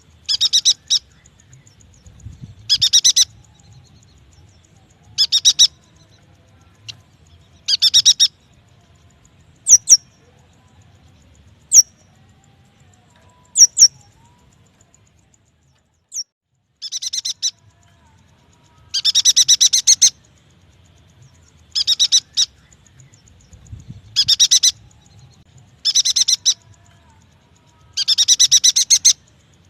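Yuhina call recording used as a lure: short bursts of rapid, high chattering notes, each under a second, repeated every two to three seconds. A few thin single high whistles fall in the middle.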